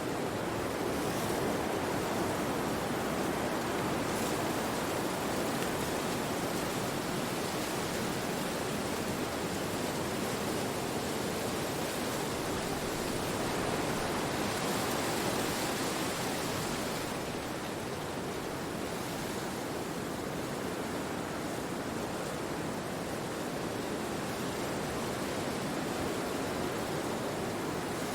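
Wind blowing through forest trees: a steady rushing of leaves and branches, swelling in a brighter gust around halfway through.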